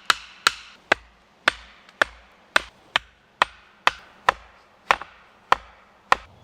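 A hatchet striking wood in a steady series of about a dozen sharp blows, roughly two a second.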